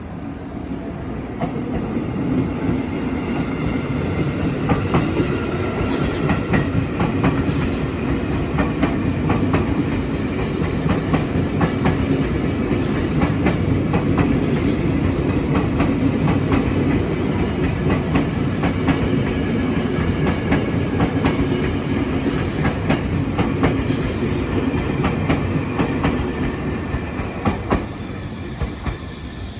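Ex-Tokyo Metro Chiyoda Line 6000-series electric commuter train running past, its wheels clicking over the rail joints in a steady clickety-clack. The sound builds over the first couple of seconds and fades near the end.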